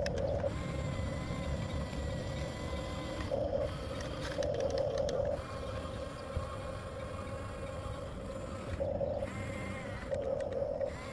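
Electric drive motors and gearboxes of a 1/14-scale Huina RC bulldozer whining. The whine surges louder in short bursts several times as the controls are worked, over a steady higher whine and a low rumbling noise.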